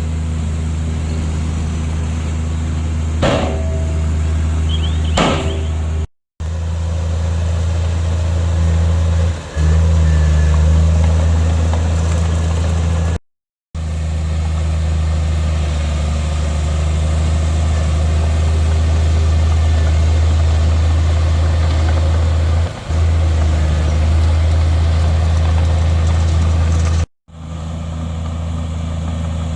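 Heavy diesel engine of a Komatsu bulldozer running steadily, with two sharp knocks about three and five seconds in. The sound cuts out to silence three times, briefly each time.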